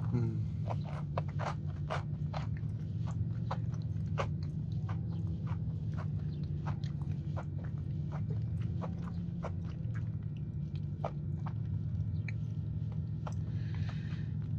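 Close-miked chewing of a soft cookie with a crunchy cinnamon-sugar crust: a steady run of small, irregular mouth clicks and light crunches.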